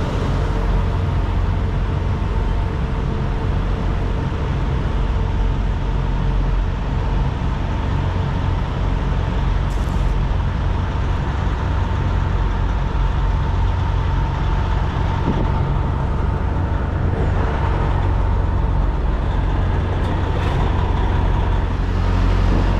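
Semi truck's diesel engine running steadily, heard from inside the cab: a constant low drone with a faint steady high tone above it.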